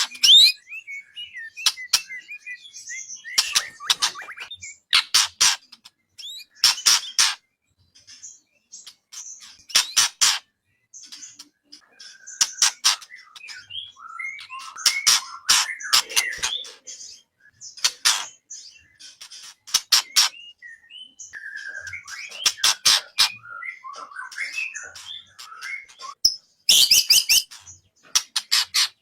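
Songbird song of rapid sharp clicking notes and short whistles, delivered in bursts with brief pauses: recorded masteran birdsong used to train white-rumped shamas (murai).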